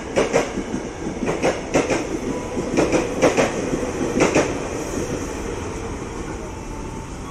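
KRL Commuter Line electric train moving past and away, its wheels clacking over rail joints in small groups of two or three for the first four and a half seconds. After that the clacks stop and a rumble fades as the train recedes.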